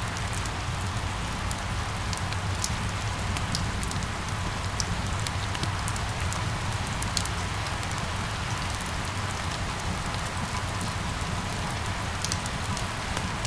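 Steady rain falling, an even hiss with scattered sharp taps of single drops landing close by, over a low steady rumble.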